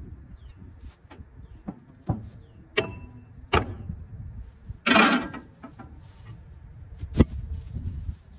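A series of sharp knocks and clanks from hand work on the baler during a tire change, with a louder half-second clatter about five seconds in.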